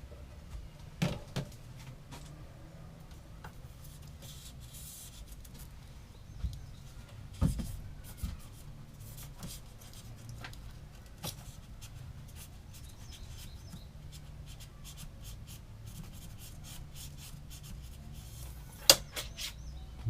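Scattered knocks, clicks and rubbing from hands working a cable through a foam-filled cabinet channel, over a low steady hum. The sharpest knock comes near the end.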